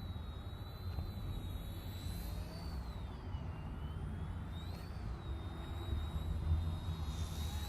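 High, thin whine of the Eachine E110 micro helicopter's motors, dropping in pitch about three and a half seconds in and rising back around five seconds as the throttle changes, over a steady low rumble.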